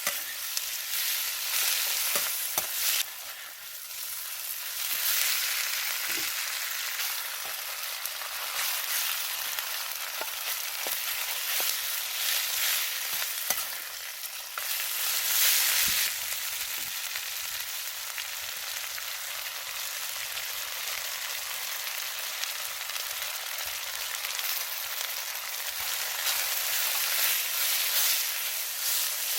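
Pork and green peppers sizzling loudly as they are stir-fried in a wok over a campfire, a steady frying hiss with a few short clicks scattered through.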